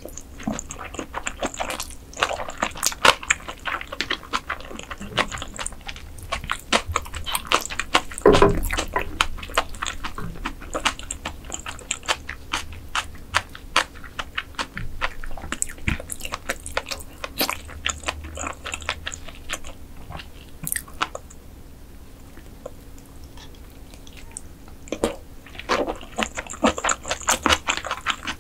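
Close-miked eating sounds of mantis shrimp: biting and chewing with sharp crunches and crackles, easing off for a few seconds about three quarters of the way through, then picking up again near the end.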